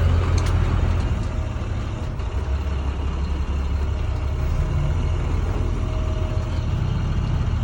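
Box truck's diesel engine running steadily at low revs.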